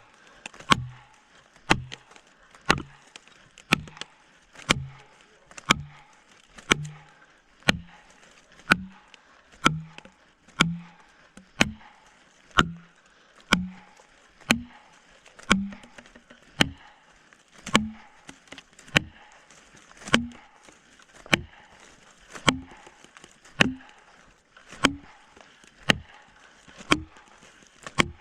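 Steady blows on a felling wedge, about one a second, each a sharp crack with a short low knock whose pitch climbs steadily over the run of blows as the wedge is driven into the cut.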